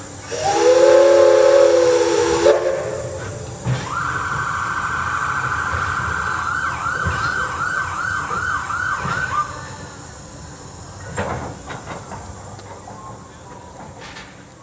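Steam locomotive whistle blowing. First comes a short blast of a deep chord over loud steam hiss, then a single higher whistle note held for about six seconds that wavers toward its end.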